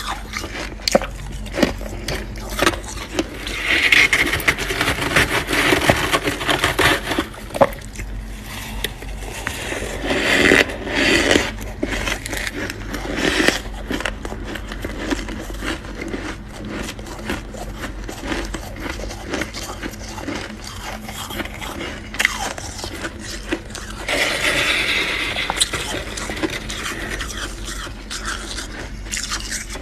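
Freezer frost being scraped and crunched: a steady run of sharp crackles and crunches, with longer, louder scraping stretches about four, ten and twenty-five seconds in.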